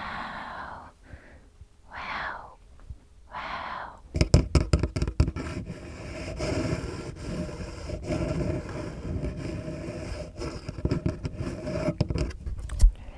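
A few soft whispers, then about eight seconds of close-up scratching and rubbing right at the microphone, crackly with many small clicks and low thumps.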